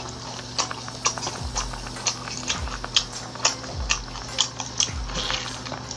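Close-up eating sounds of a woman biting and chewing spice-coated lobster: irregular wet clicks and crisp crackles of chewing and lip smacks.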